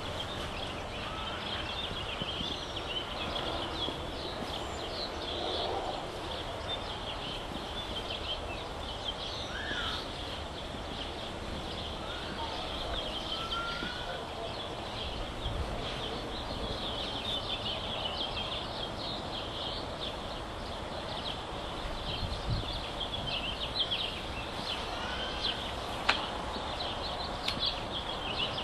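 Outdoor ambience of many small birds chirping continuously, with a few short whistled calls, over a steady background hiss. There is one sharp click near the end.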